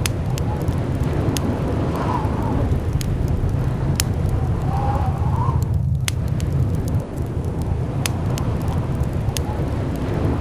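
Blizzard wind blowing steadily with a deep rumble, a faint whistling swirl now and then, and scattered sharp clicks throughout.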